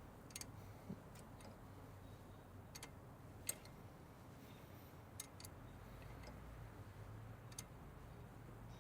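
Faint, irregularly spaced light clicks and ticks of hand tools and small metal parts being handled during brake reassembly, over a faint steady low hum.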